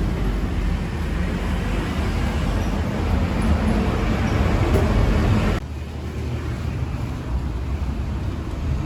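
City street traffic noise, a steady rumble and hiss of passing motorbikes and vehicles. About two-thirds of the way through it cuts off abruptly to a quieter, lower traffic rumble.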